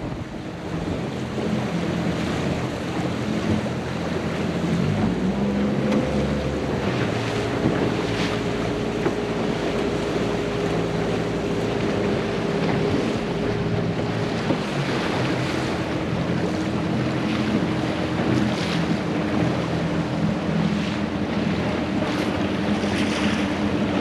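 Motorboat engine running steadily under wind rushing over the microphone and water splashing past the hull. The engine note rises about five seconds in and drops again about fourteen seconds in as the throttle changes.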